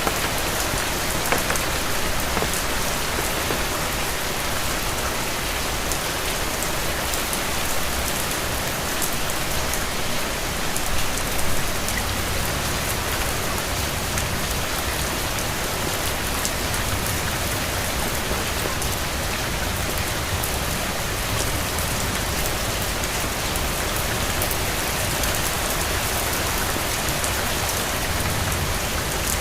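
Steady rain falling on a hard surface, a dense even patter of drops, with a low rumble underneath.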